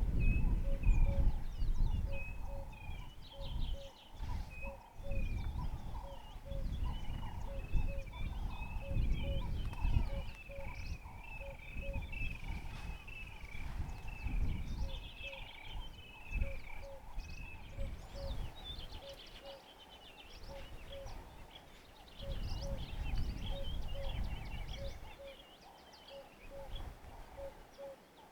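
Wild birds calling and singing in a mixed chorus of high chirps and trills, over a short low note repeated about twice a second. A gusty low rumble rises and falls underneath, loudest in the first few seconds.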